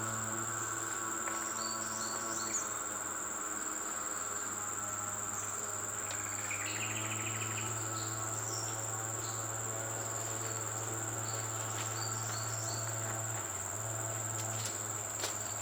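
Steady high-pitched drone of insects such as crickets or cicadas, with a low steady hum underneath and a few short, faint chirps scattered through.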